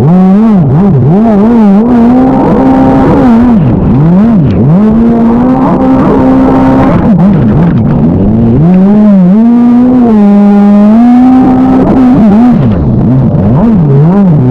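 Stand-up jet ski engine running hard, the revs dropping sharply and climbing back again and again as the throttle is chopped and reapplied through turns.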